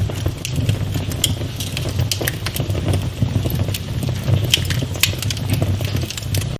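Wood fire burning in a fireplace, crackling with irregular sharp pops several times a second over a steady low rumble.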